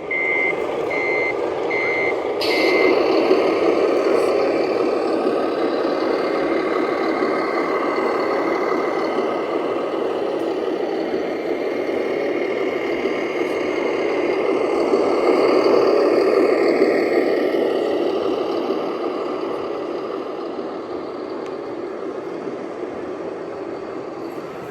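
Radio-controlled scale truck with a sound unit: reversing beeps about twice a second, then a sudden hiss like an air-brake release. After that the truck's engine sound runs steadily, swelling in pitch and loudness about two-thirds of the way through and easing off near the end.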